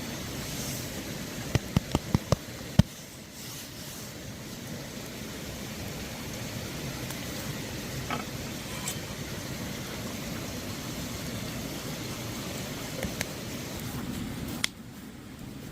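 Steady low rumbling noise with a quick run of about six sharp clicks or taps around two seconds in, then a few single clicks. The background noise drops suddenly near the end.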